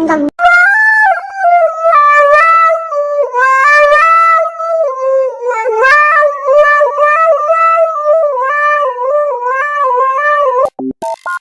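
A dog howling in a long, wavering call whose pitch keeps rising and falling, stopping near the end.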